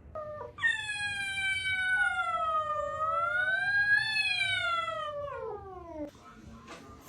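A cat yowling: a brief call, then one long drawn-out yowl of about five seconds that dips and rises in pitch and slides down at the end.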